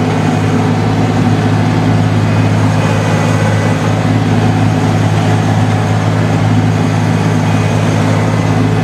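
Farm tractor engine running steadily, with an even low drone and no change in speed, before the PTO tiller is engaged.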